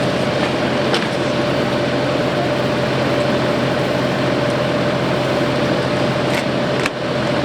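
An engine running steadily with a constant hum, with a few short clicks and knocks over it.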